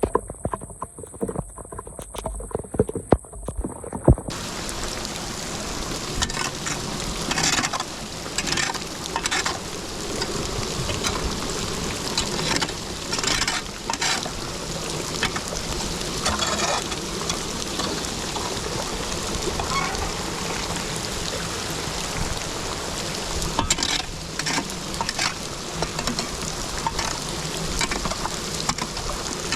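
Floodwater rushing steadily down a cleared drain, with frequent short splashes. For about the first four seconds there are only a few sharp knocks and clicks before the water sound starts.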